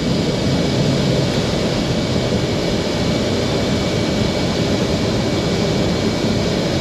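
Fokker 70's twin Rolls-Royce Tay turbofans running at takeoff power, a loud, steady jet roar with rushing air during the takeoff run and lift-off.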